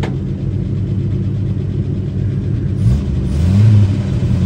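A 1948 Chevrolet's inline-six engine running as the car rolls slowly away. About three seconds in the revs rise, and the engine is loudest just before the end.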